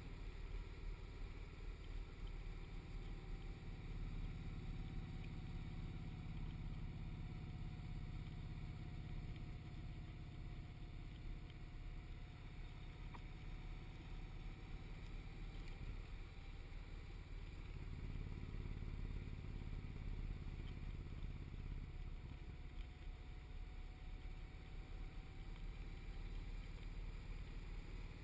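Motorcycle cruising at a steady speed: a low engine rumble mixed with wind and road noise.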